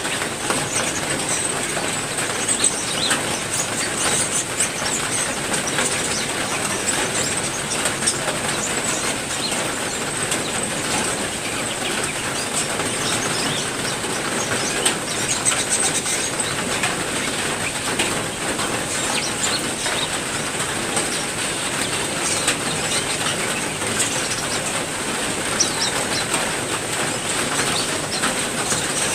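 Steady heavy rain, with songbirds chirping here and there through it.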